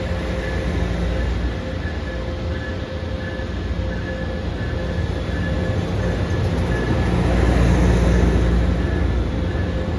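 Train running along the rails: a steady low rumble with a faint constant hum over it, growing a little louder about seven to eight seconds in.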